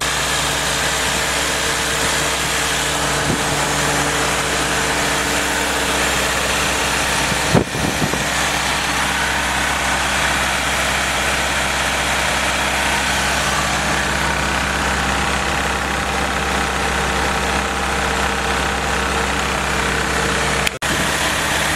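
Freshly rebuilt Willys L134 four-cylinder flathead engine running steadily on a test stand during its first break-in run. A single sharp knock about seven and a half seconds in.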